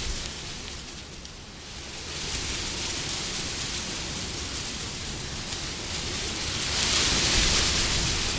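Wind blowing in gusts, easing off about a second in, then building and swelling to a louder gust near the end.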